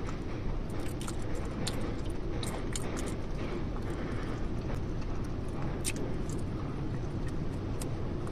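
Close-miked chewing of soft steamed sweet potato: scattered wet mouth clicks and lip smacks over a steady low background noise.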